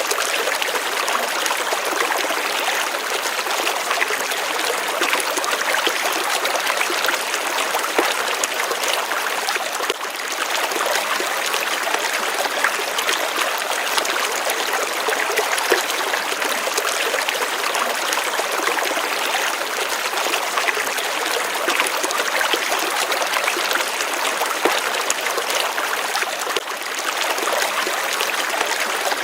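Running water: a small stream trickling and splashing over stones in a steady, even flow.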